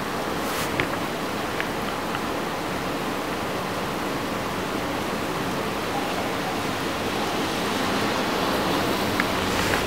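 Steady heavy rain, a dense even hiss with a few faint ticks, growing a little louder near the end.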